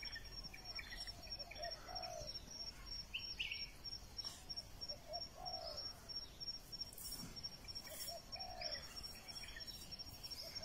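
Birds calling: low, soft cooing notes, often in pairs and repeated every few seconds, with a few higher chirps. A steady, high-pitched pulsing whine runs underneath.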